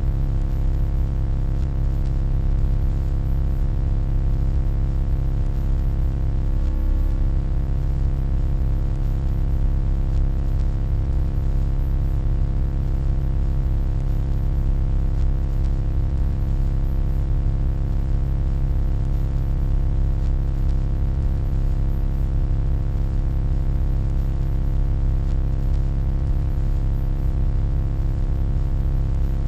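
Steady, deep electronic hum, strongest in the low bass with a stack of constant tones above it, unchanging throughout apart from a brief faint warble about seven seconds in.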